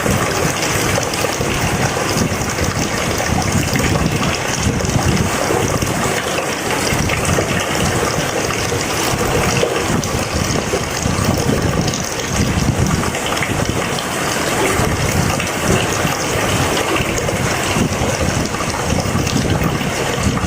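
Heavy rain pouring steadily, a dense, even wash of water noise with no breaks.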